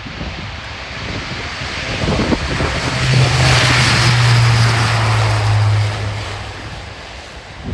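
Airbus A400M taking off, its four TP400 turboprops with eight-bladed propellers at takeoff power. A loud, deep propeller drone swells, peaks about three to six seconds in with a strong low hum that drops slightly in pitch, then fades as the aircraft moves away.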